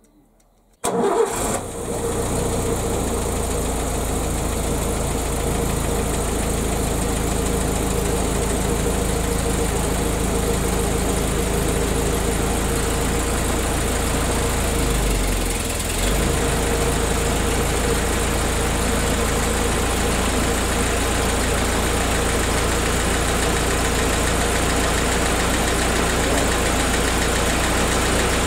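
Willys jeep's four-cylinder flathead engine idling steadily. It cuts in suddenly about a second in, with a brief dip in engine speed about halfway through.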